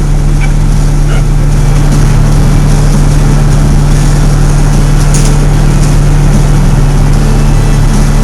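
Fire truck's diesel engine running with a loud, steady drone.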